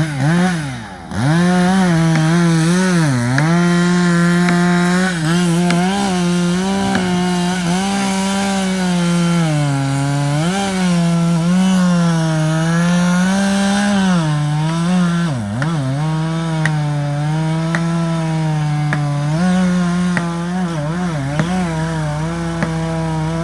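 Two-stroke chainsaw cutting wood at full throttle, its pitch sagging briefly under load several times and picking back up.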